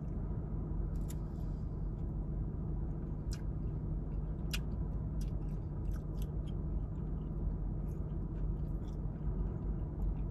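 A person chewing a crispy, breaded vegan fried bite close to the microphone: scattered crunches and mouth clicks over a steady low hum inside the car.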